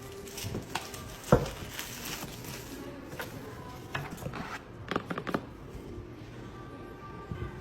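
A few sharp clicks and taps of small objects being handled, the loudest about a second in and a quick cluster around five seconds in, over faint background music.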